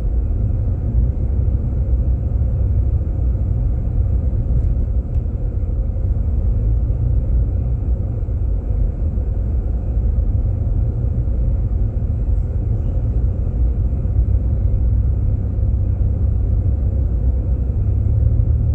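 Steady low rumble of a Jeep Grand Cherokee driving on a snowy road, heard from inside the cabin: tyre and engine noise with no distinct events.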